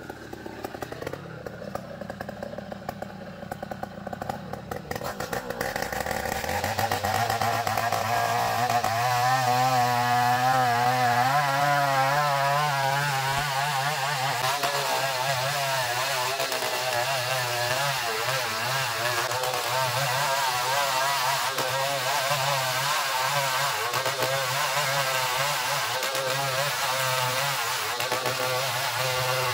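Chainsaw engine running low at first, then opened up to full throttle about six seconds in and held at high speed, its pitch wavering under load as it cuts through ulin (Bornean ironwood).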